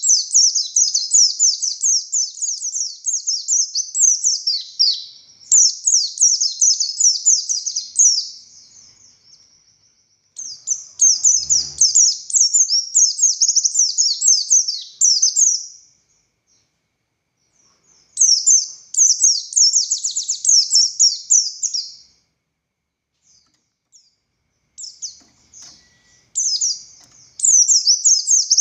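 Pleci buxtoni white-eye singing a fast, high, twittering song in bouts several seconds long, broken by short pauses. This is the loud, sustained 'gacor ngalas' song prized by keepers.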